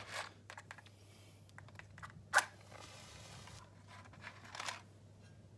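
A match struck once about halfway through, a sharp scrape followed by about a second of hiss as the head flares, with small rustles and clicks of handling the matchbox before and after.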